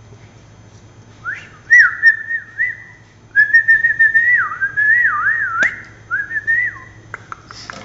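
Clear whistling in three phrases of sliding, warbling notes, with a sharp click partway through and a few soft ticks near the end.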